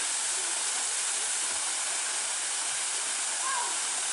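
Waterfall's falling water making a steady, even rushing hiss.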